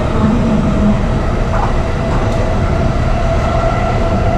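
JR East E233-series electric commuter train running, heard from inside the carriage: a steady low rumble of wheels on the track with a steady whine over it.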